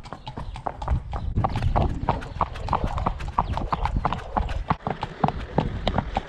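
Hooves of two ridden horses clip-clopping on a paved lane, a quick, even run of sharp knocks several times a second.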